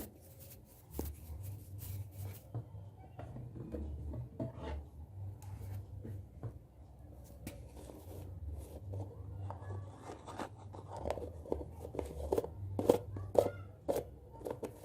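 ASMR hand sounds close to the microphone: hands rubbing and brushing, with many soft crackles and light taps that grow denser and louder in the second half, over a low handling rumble.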